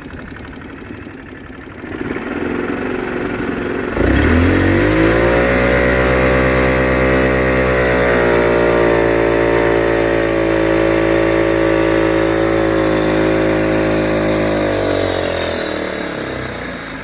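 Linhai Rustler 260 automatic quad bike engine idling, then revved up sharply about four seconds in and held at a steady high rev for about ten seconds before dropping back toward idle near the end. The engine doesn't rev up properly, a fault the owners have not traced to fuel, spark or valves and wonder whether the CDI unit is behind.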